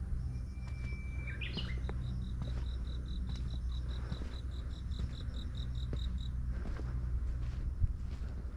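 A bird outdoors: one held whistled note that ends in a quick up-and-down flourish, then a fast, even run of short high chirps for about four seconds. Under it, a steady low rumble of wind on the microphone.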